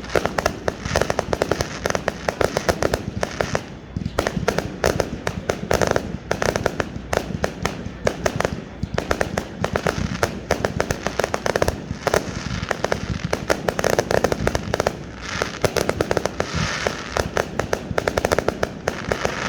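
Fireworks going off in a rapid, continuous barrage: dense crackling and repeated bangs, bunched into thicker flurries every couple of seconds.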